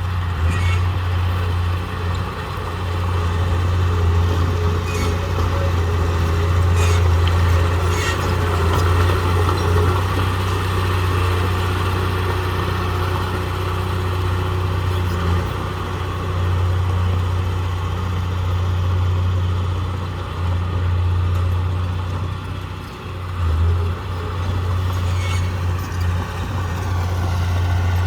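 Heavy diesel earthmoving machine engine running steadily under load, with a few sharp knocks scattered through.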